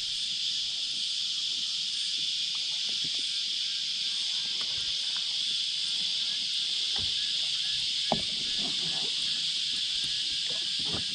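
Cicadas chorusing in a steady, unbroken high drone, with a few faint knocks past the middle, the sharpest about two thirds of the way through.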